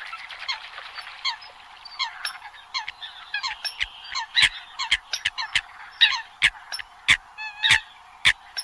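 Eurasian coots calling: a rapid series of short, sharp pitched calls, several a second, mixed with hard clicks.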